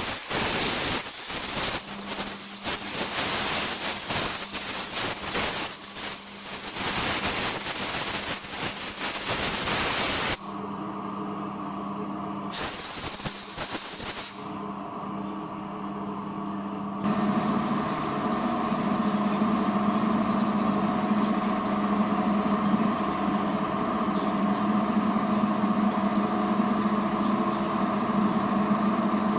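Detailing machine at work: a loud, steady hiss for about ten seconds over a faint motor hum. Then the motor hums on its own with a short burst of hiss, and the hum grows louder about two-thirds of the way through.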